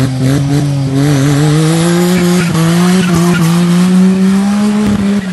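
Turbocharged Perodua Kancil drag car's engine held at high revs, its pitch slowly climbing, with tyre squeal from spinning wheels, as in a burnout. The engine note drops off near the end.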